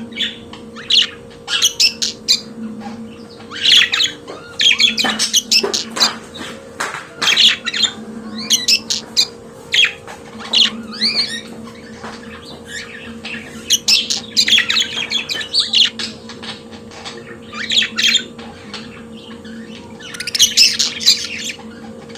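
Budgerigars chattering and warbling: bouts of rapid chirps, squawks and twittering notes, with brief pauses between them. A steady low hum runs underneath.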